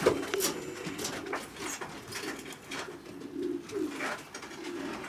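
Racing pigeons cooing in their loft, low and wavering, with a few sharp clicks scattered through.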